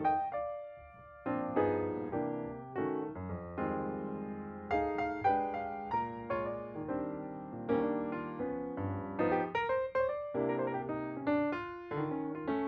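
Background music: an electric piano or keyboard playing a melody over chords, with notes struck and left to ring.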